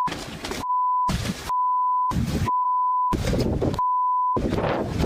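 Censor bleeps: a steady single-pitch beep tone, about half a second at a time, cuts in five times and blanks out the soundtrack beneath it. Between the bleeps, short bursts of noisy outdoor audio come through.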